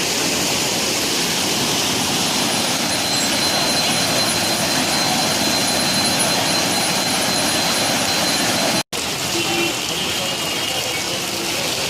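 Steady rush of floodwater. It breaks off for an instant at a cut about nine seconds in, then carries on.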